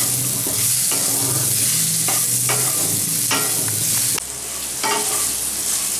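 Cubed potatoes sizzling as they fry in mustard oil in a kadai, turned with a wooden spatula that scrapes and knocks against the pan; they are being browned. The sizzle drops a little about four seconds in.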